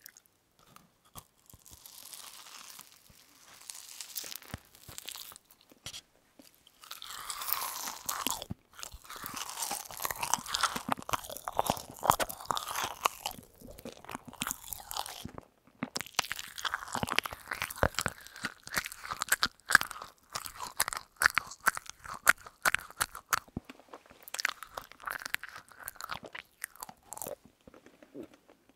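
Close-miked chewing of a sugar-coated candy: sugar granules crunch and crackle between the teeth, with wet mouth sounds. The chewing comes in runs broken by a few short pauses.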